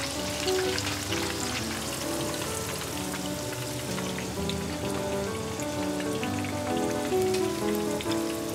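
Corn kakiage fritters sizzling and crackling in hot oil, under a gentle background music melody of held notes.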